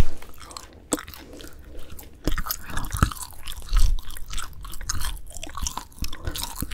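Close-miked chewing of grilled dried filefish fillet (jwipo), with crisp, irregular crunching and crackling. A sharp click comes right at the start.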